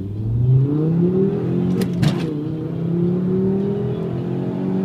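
Car engine accelerating hard, heard from inside the cabin. The revs climb steeply, then a hard gear change about two seconds in brings a sharp clunk and a brief dip in pitch, and the revs climb again more slowly.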